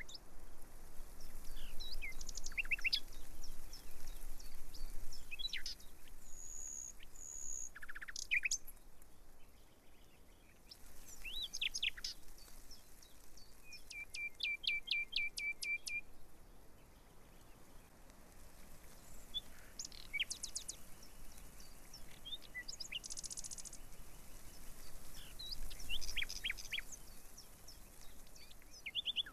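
Birds chirping and calling: short chirps, quick sweeps and trills from several birds throughout, with a fast, even trill of about ten notes around the middle.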